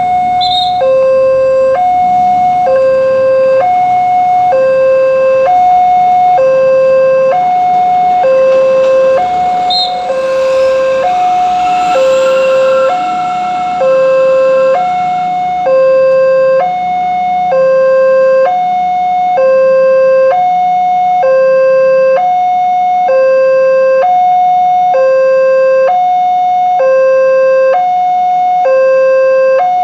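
Railway level-crossing warning alarm sounding: an electronic two-tone signal alternating steadily between a higher and a lower note, each about half a second, warning that a train is approaching.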